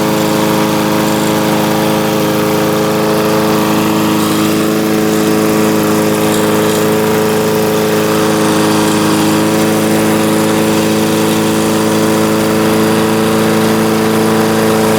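Small lawn mower engine running steadily at a constant speed, its muffler hanging loose.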